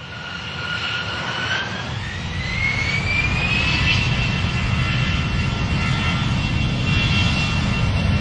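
Jet airliner engines spooling up: a whine rises in pitch over the first few seconds and then holds steady over a low rumble that grows louder.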